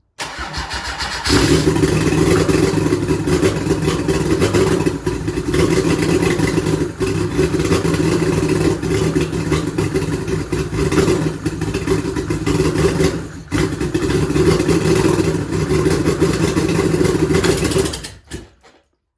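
Mercedes-Benz OM606 3.0-litre inline-six diesel engine cranking for about a second, catching and running loud for roughly seventeen seconds, with a few brief dips in its note. It then shuts off near the end.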